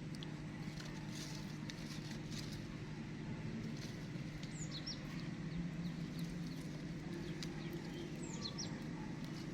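Two short, high animal chirps that fall in pitch, about four seconds apart, over a steady low hum and scattered light clicks.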